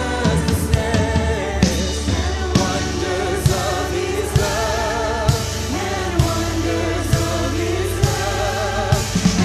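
Voices singing a song with a live band: held, wavering sung notes over a steady bass line and a drum hit roughly once a second.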